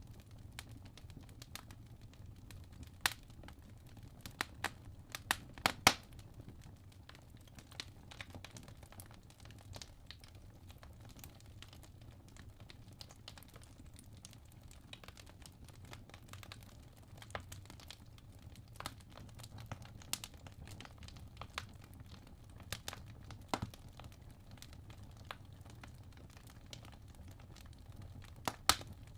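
Wood logs burning in a fireplace: irregular crackles and sharp pops over a low, steady rumble of flame, with a cluster of louder pops a few seconds in and again near the end.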